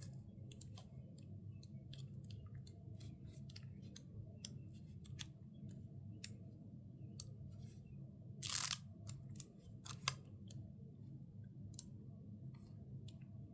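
Paper sticker-book pages and sticker sheets being handled and leafed through: scattered light clicks and taps, with a brief louder paper rustle about eight and a half seconds in and a sharp click soon after, over a low steady hum.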